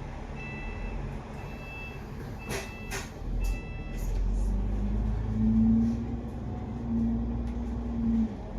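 Inside a double-decker bus: a warning beep repeats about once a second, with two sharp knocks about two and a half and three seconds in. The engine then rises into a low rumble with a steady whine as the bus pulls away.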